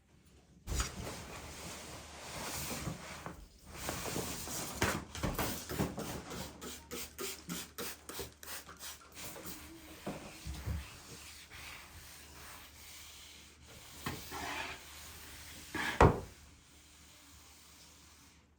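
Rapid repeated rubbing strokes, with quieter handling after them and a single sharp knock near the end.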